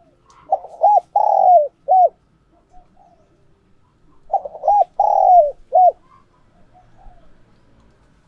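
Spotted dove cooing: two loud four-note phrases about four seconds apart, each with short coos and one longer falling coo.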